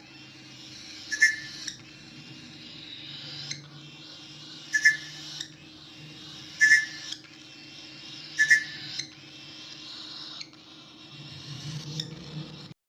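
A pet bird giving short, sharp whistled calls, about five of them, spaced a second or two apart, over a faint steady low hum. The sound cuts off abruptly near the end.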